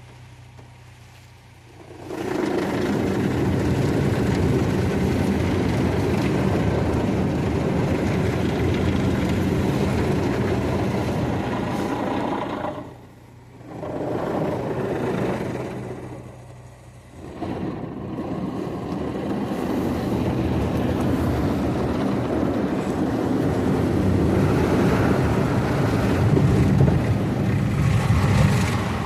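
Automatic car wash equipment running: a loud, even rushing noise of water spray or blowers that starts about two seconds in, with two brief dips near the middle.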